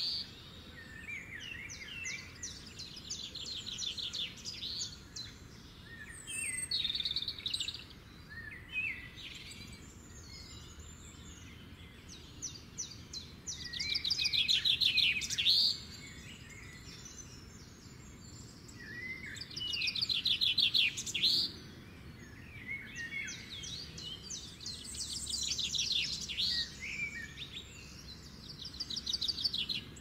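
Birds calling: bouts of rapid, high trilling calls come every few seconds, with shorter chirps in between, over a faint steady background hiss.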